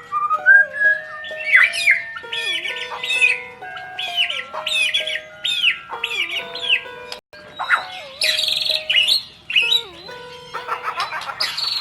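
A caged songbird singing a long, varied song of quick chirps, trills and sweeping whistles, with barely a pause, over background music with held notes.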